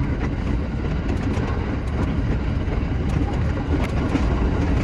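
Shinano Railway SR1 series electric train running along the line, a steady rumble of the car with many short rail clicks.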